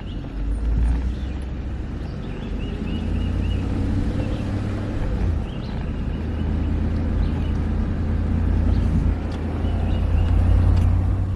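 Vehicle driving: a steady low engine and road drone that grows gradually louder and drops off suddenly at the end, with faint high chirping over it.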